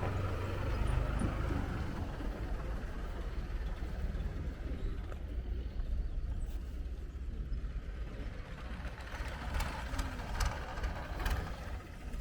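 Steady low rumble of vehicle noise, with a few sharp clicks near the end.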